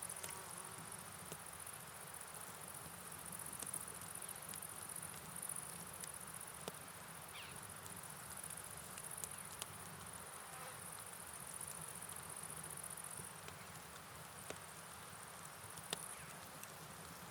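Faint night ambience: a steady high-pitched insect trill, such as crickets, over a soft wash of rain and running water, with scattered light ticks. The trill drops back about three quarters of the way through and then returns.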